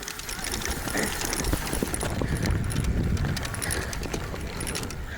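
Wind buffeting the phone's microphone as a low rumble, with a rapid uneven rattling and clattering as the phone jolts about during a fast ride.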